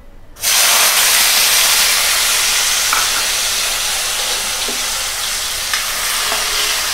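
Chopped tomatoes hitting hot oil in a kadhai: a loud sizzle starts suddenly about half a second in and carries on steadily, easing slightly as they fry. A spatula stirring them adds a few light scrapes.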